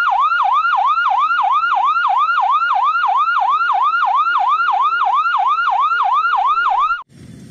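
Ambulance siren wailing in a fast yelp, each cycle dropping in pitch, about three to four cycles a second. It cuts off abruptly near the end.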